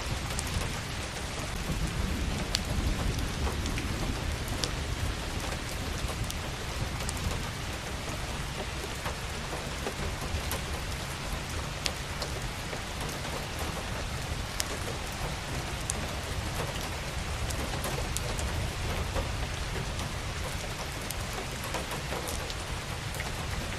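Steady even rushing hiss with scattered faint sharp ticks; no bird song stands out above it.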